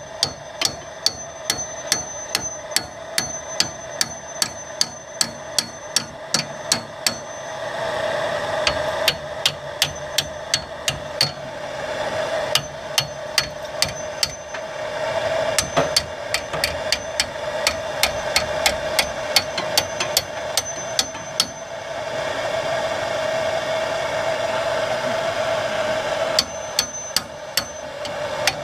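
Hammer blows on metal, about three a second in steady runs with a few short pauses, each strike ringing.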